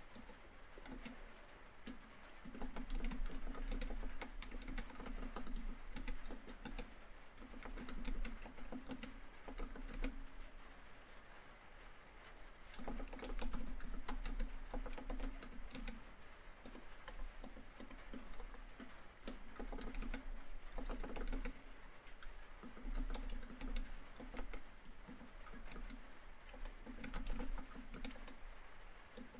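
Typing on a laptop keyboard in quick bursts of key clicks with brief pauses, over a steady patter of rain on a tin roof.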